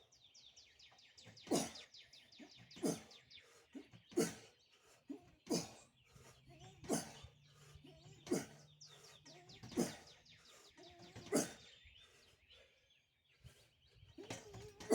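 A man breathing out hard with each pull-up rep: eight sharp breaths, about one every one and a half seconds, then they stop. Birds chirp in the background.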